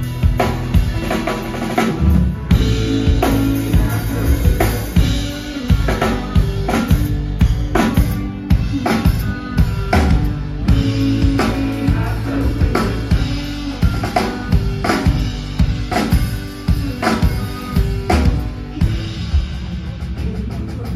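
Live rock band playing an instrumental passage, the drum kit to the fore with steady bass drum and snare hits over sustained bass notes.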